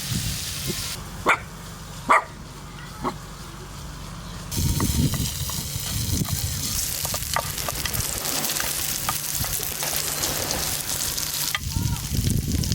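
Food sizzling in a pan, with three sharp knocks in the first few seconds, then steadier, louder sizzling with small crackles.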